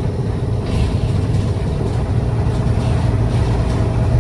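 Diesel engine of a Japanese route bus running steadily, heard from inside the bus as a constant low hum with light rattles from the cabin.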